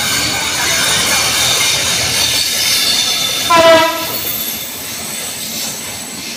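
Passenger train, the Dhaka–Kolkata Maitree Express, rolling through the station with its wheels squealing on the rails. A short horn blast sounds about three and a half seconds in.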